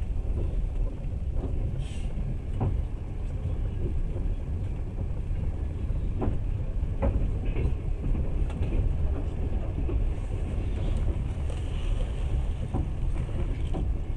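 Train running along the track, heard from inside the carriage: a steady low rumble with a few sharp clicks and knocks at irregular moments.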